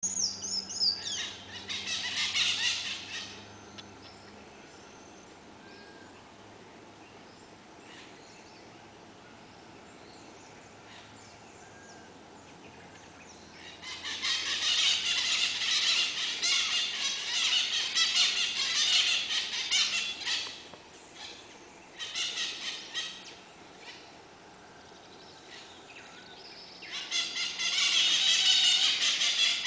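Birds calling outdoors: several loud bursts of rapid, high-pitched screeching chatter lasting a few seconds each, with a falling whistle at the start and a few short whistled notes in the quieter stretches between.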